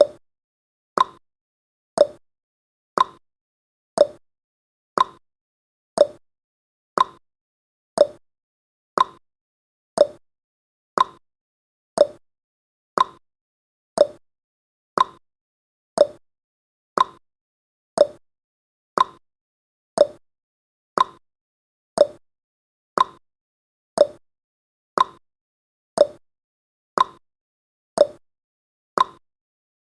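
Clock-style ticking sound effect marking each second of a countdown timer: one short tick every second, alternating between a higher and a lower tick, like a tick-tock.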